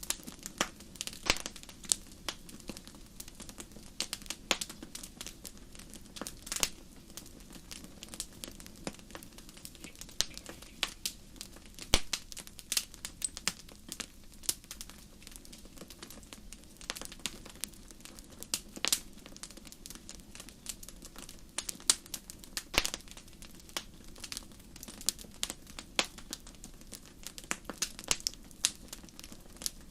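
Wood fire burning in a fireplace, crackling and popping in irregular sharp snaps of varying loudness over a soft steady low rush of flame.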